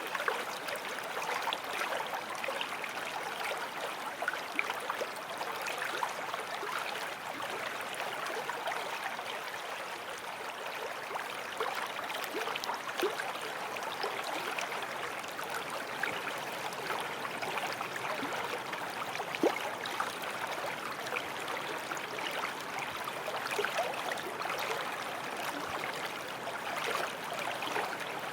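Forest stream flowing over stones: a steady rush of water with many small splashes and gurgles.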